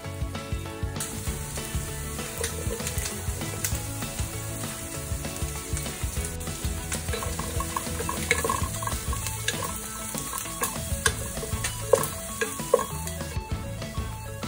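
Diced red onion sizzling in hot oil in a frying pan, stirred with a wooden spatula that clicks against the pan now and then. The sizzle starts about a second in and stops shortly before the end, over background music.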